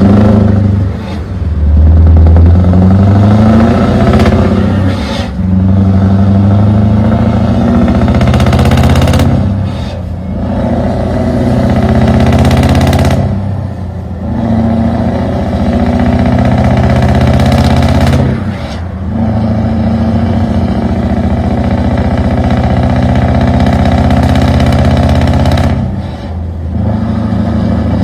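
Scania Next Gen truck's 16-litre V8 diesel engine running loud. Its note climbs slowly and then drops away briefly about every four to five seconds, six times in all.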